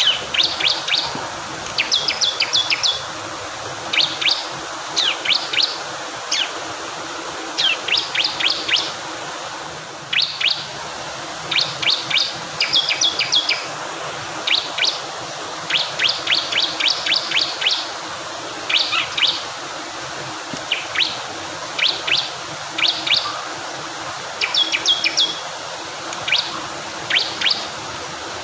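Bar-winged prinia (ciblek kristal) singing in quick clusters of two to six sharp high notes, repeated every second or two, over the steady rush of fast-flowing water.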